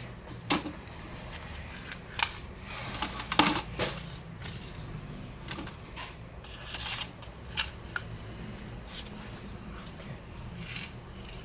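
Scattered sharp clicks and light knocks of an HP laptop's plastic body being handled, with a busier run of them about three seconds in.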